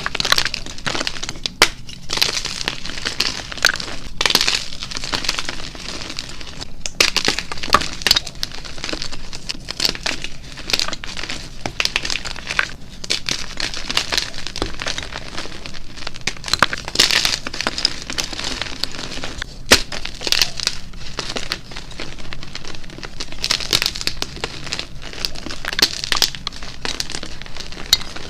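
Blocks of gym chalk crushed and crumbled close to the microphone: a continuous dense crunching and crackling with sharp cracks here and there as pieces break.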